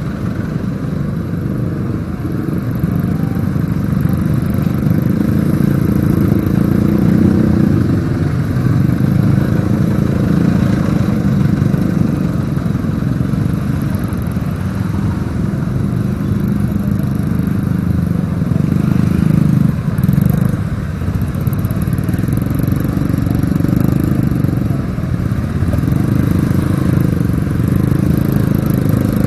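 Motorcycle on the move: engine running steadily, mixed with low wind rumble on an action camera's microphone.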